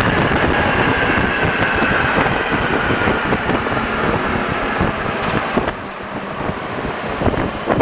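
NS-74 rubber-tyred metro train running, with a whine that falls slowly in pitch as it slows. About six seconds in the running noise drops, leaving a few scattered clunks.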